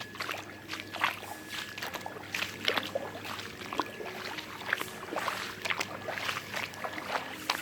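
Floodwater sloshing and splashing in quick, irregular bursts, over a faint steady hum.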